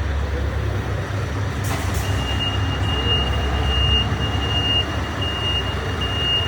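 Scania 660 V8 diesel truck idling with a steady low rumble through its diffuser exhaust. About two seconds in there is a short burst of air hiss, and then the reversing alarm starts beeping in a repeated high tone as the truck manoeuvres.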